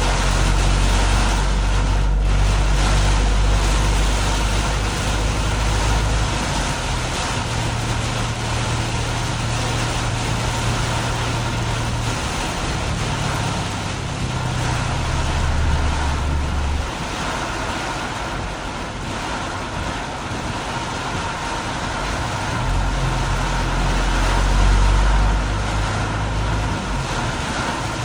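Vehicle driving through heavy rain: a steady hiss of rain and wet road spray over a low rumble that shifts up and down several times.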